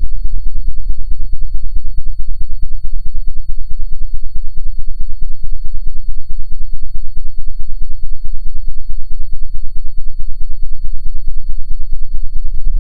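Loud low droning noise that pulses rapidly, many times a second, with a thin steady high-pitched whine over it.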